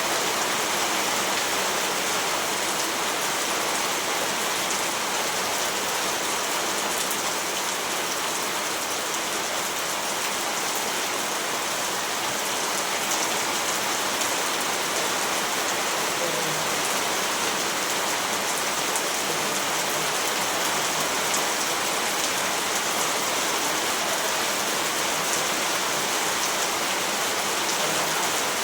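Steady rainfall, an even hiss of drops with faint fine patter and no change in intensity.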